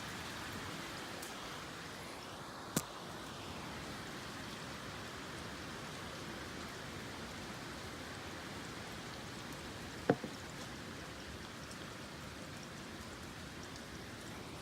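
Steady noise of typhoon rain and wind, with two sharp knocks, one about three seconds in and a louder one about ten seconds in.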